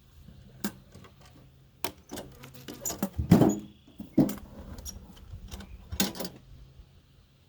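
Irregular sharp clicks and knocks of objects being handled, with a heavier thump about three seconds in and a short run of clicks near the end.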